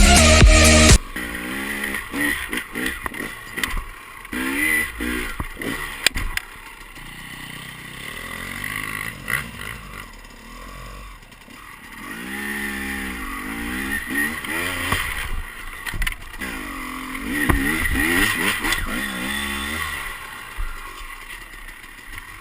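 Dirt bike engine revving up and falling back again and again, with scattered knocks and clatter. Music plays for about the first second, then cuts off.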